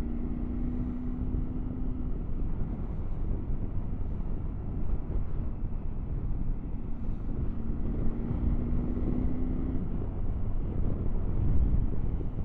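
Triumph Tiger 900 GT Pro's three-cylinder engine running at a steady cruise, with wind rush over the microphone. The engine note rises slightly between about six and ten seconds in.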